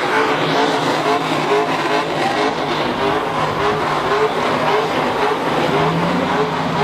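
Car engine revved in quick, repeated blips, each a short rise in pitch, over the steady running of an idling engine.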